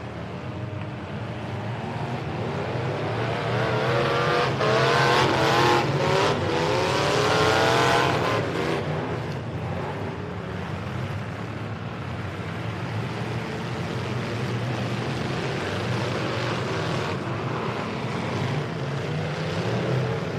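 Demolition derby trucks' engines running with open headers, several revving hard at once. The loudest run of rising and falling revs comes about four seconds in and eases off after about eight seconds.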